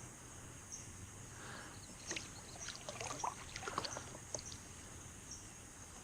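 Light knocks, clicks and small water sounds from a fishing kayak and its gear, scattered and bunched in the middle, over a faint steady high hiss.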